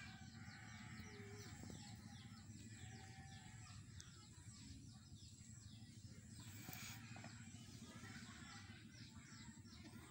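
Faint bird chirping: short high chirps repeating several times a second, over a low background rumble.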